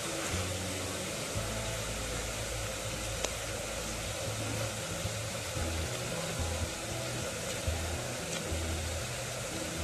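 Sliced onions frying in hot oil in a pan, a steady sizzling hiss with a few light clicks.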